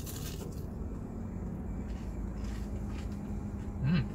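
Faint chewing of a crisp fried pie over the steady low rumble of a car cabin, with a short rising-and-falling 'mm' hum near the end.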